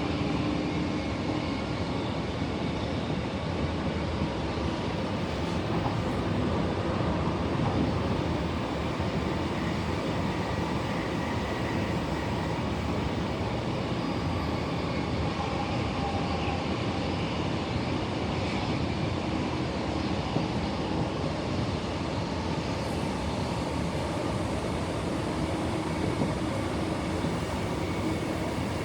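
Suburban electric train running, a steady rail rumble with a faint whine that holds without clear change.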